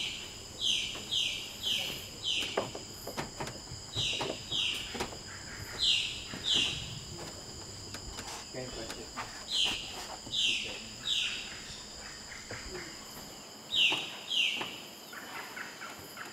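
A bird calling in quick runs of three to five high notes that slide downward, a run every couple of seconds, over a steady high insect drone. A few short knocks are mixed in, fitting footsteps on wooden stairs.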